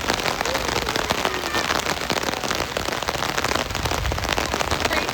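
Heavy rain falling, a dense, steady spatter of many small drop impacts.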